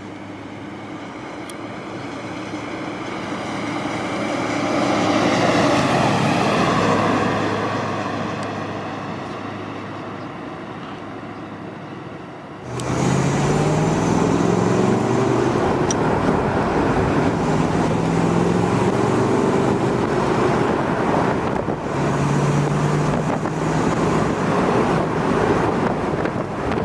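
1963 Corvette's 327 V8 running as the car drives. It swells to a peak and fades over the first dozen seconds, then about halfway through cuts to a louder, closer engine note that climbs in pitch several times as the car accelerates.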